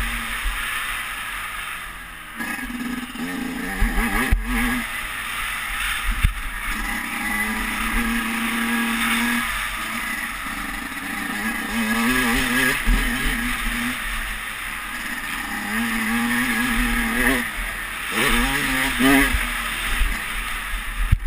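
Motocross dirt bike engine revving hard and backing off again and again, its pitch climbing and falling between gear changes. There are a few brief throttle-offs and a couple of sharp knocks.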